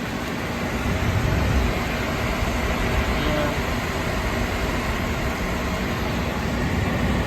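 2010 Everstar 10,000 BTU portable air conditioner running on its highest fan speed: a steady rush of strong airflow over a faint hum, with a low rumble of the air stream on the microphone. It grows a little louder about a second in.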